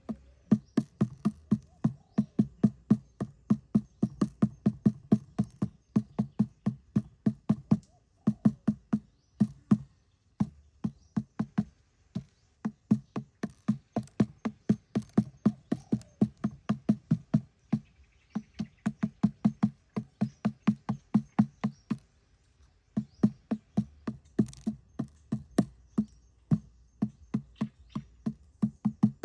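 Rapid, dull knocking on wood, about four strikes a second, in runs of a few seconds with short pauses between them: the sound of chopping or tapping while a wooden trap is being made.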